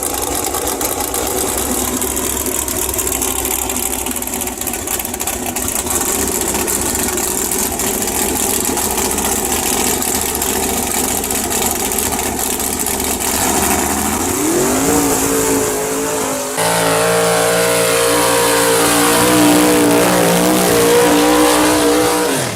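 Off-road vehicle engine running rough and loud, then revving up about two-thirds of the way in and held at high revs until near the end.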